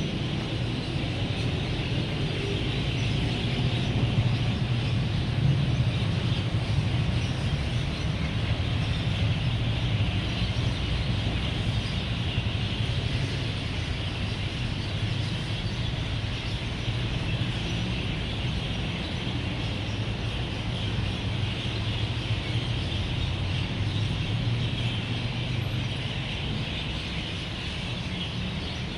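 Steady road-traffic rumble under a dense, continuous chorus of many birds chirping as they gather to roost at dusk.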